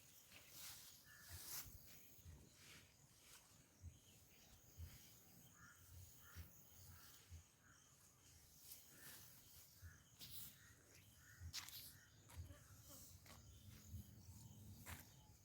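Near silence: faint outdoor ambience with a few soft scattered clicks and rustles.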